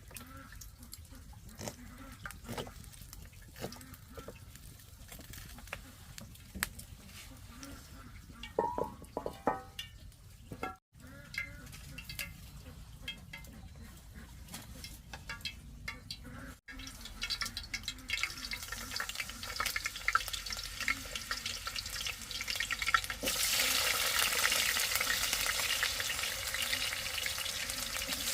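Scattered clicks and knocks of kitchen handling, then about 23 seconds in a steady, louder sizzle starts: potato chips frying in hot oil.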